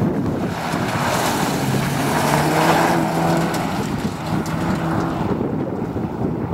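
Seat Leon Cupra's turbocharged four-cylinder engine under hard acceleration as the car passes and pulls away, the engine note coming in two spells, the second shorter, with wind buffeting the microphone throughout.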